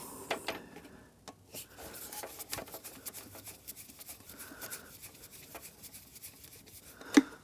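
Hands working on motorcycle parts: scattered light clicks and rubbing, with a sharper click near the end.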